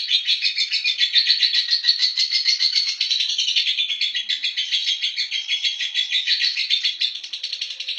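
Lovebird singing 'ngekek', the long unbroken chattering song prized in Indonesian lovebirds: a rapid, shrill chatter of about ten notes a second.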